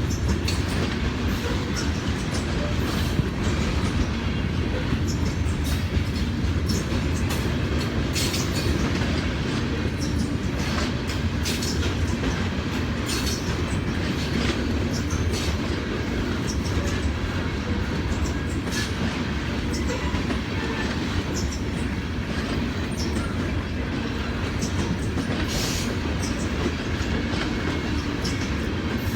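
Freight train of grain hopper cars rolling past: a steady rumble with irregular clicks of the wheels over the rail joints.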